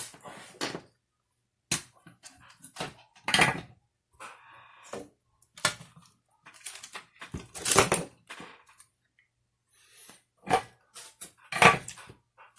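Irregular clicks, scrapes and light knocks of small plastic and metal parts being handled at a workbench during a clock-spring wire repair, a few of them louder than the rest.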